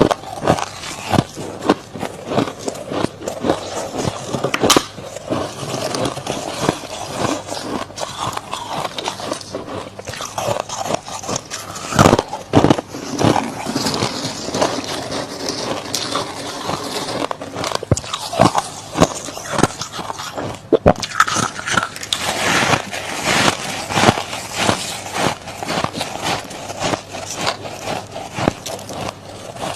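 Freezer frost being bitten and chewed: a steady run of crisp, irregular crunches.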